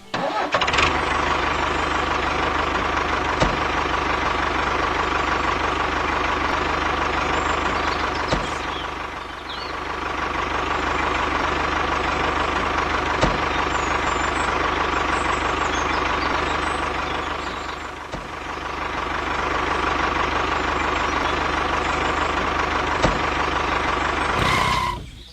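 A motor running steadily with a constant whine, starting abruptly, easing off briefly twice, and cutting off suddenly near the end.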